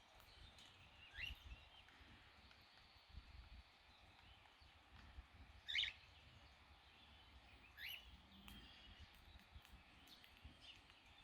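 Faint bird chirps over quiet outdoor hiss: three short calls, about one, six and eight seconds in, the first and last sweeping up in pitch.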